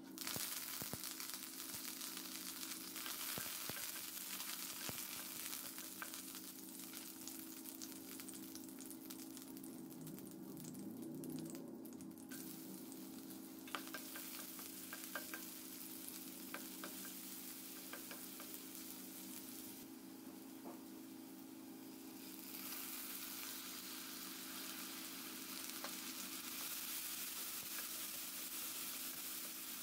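Curry leaves and dried red chillies sizzling in hot oil in a steel kadai, the sizzle starting suddenly as the leaves go in. Chopped onion then fries in the oil and is stirred, with occasional clicks of the stirring spoon on the pan.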